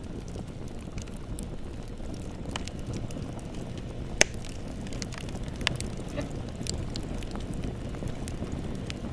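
Bonfire burning with a steady low rumble and scattered sharp crackles of burning wood, with one loud pop about four seconds in and another a little before six seconds.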